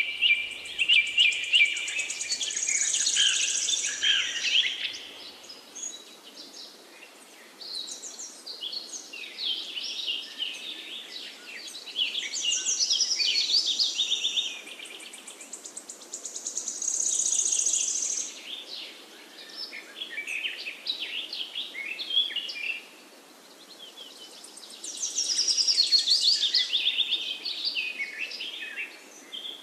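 Forest songbirds singing: high, rapid trilled and chirping phrases a few seconds long, repeated after short pauses, over a faint steady background hiss.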